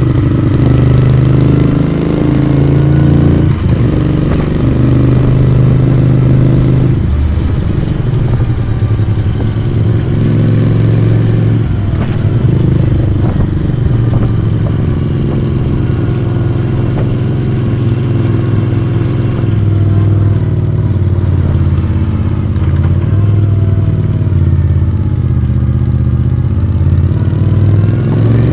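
1982 Moto Guzzi V35's V-twin engine and exhaust running under way. The revs shift about 3.5 and 7 seconds in, then drop off and pick up again near the end.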